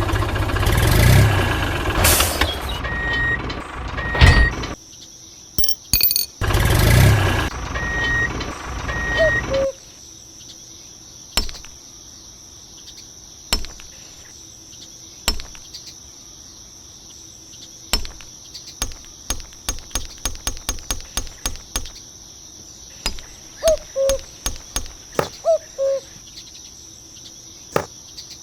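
A vehicle engine runs with a reversing beeper giving short, evenly spaced beeps, then cuts off about ten seconds in. After that a steady high-pitched trill continues, with scattered sharp clicks.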